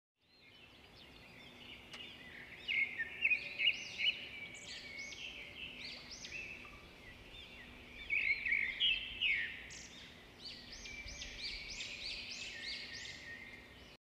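Small birds chirping: a dense run of short, high chirps that rise and fall, loudest in clusters a few seconds in and again about eight seconds in, over a faint steady hum.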